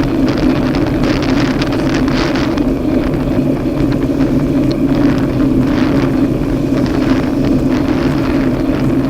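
A vehicle engine running with a steady drone, mixed with wind rushing over the microphone in uneven gusts.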